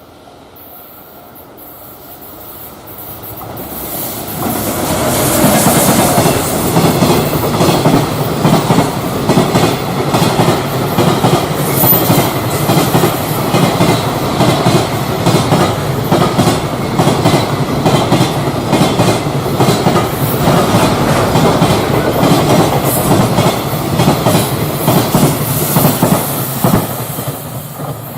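A freight train passing close by, its wagon wheels clattering rhythmically over the rail joints. It grows louder over the first few seconds, holds for about twenty seconds as the wagons go by, and dies away near the end.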